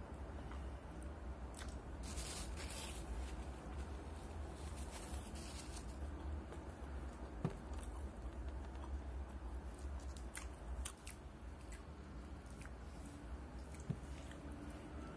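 Close-up chewing and biting into a breaded fried-chicken burger, with scattered sharp crunches and clicks through the chewing, over a steady low hum.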